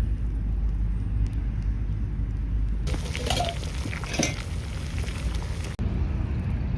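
Steady low wind rumble on the microphone, broken in the middle by about three seconds of crackling and hissing from the campfire.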